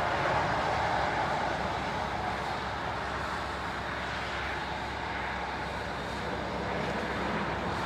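An engine running steadily, a continuous mechanical noise that holds level with no distinct events.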